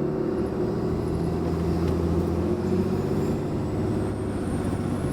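Ram 2500's 6.7 Cummins inline-six turbo-diesel running on the road with the windows down, breathing through an aftermarket S&B cold air intake. A steady engine drone, with a faint high whistle that rises in pitch in the second half.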